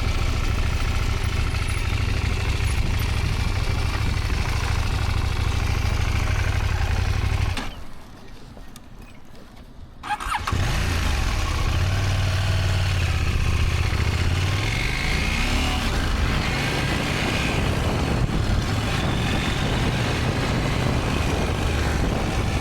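Motorcycle engine idling, then cutting out about seven and a half seconds in. About two seconds later it is restarted with a click and catches, then the engine note rises as the bike pulls away.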